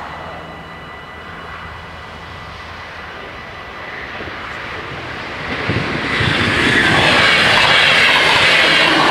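Level-crossing warning bells ringing steadily while an ICMm (Koploper) electric intercity train approaches. About five and a half seconds in, the train's rush of wheels and air swells sharply and stays loud as it passes the crossing.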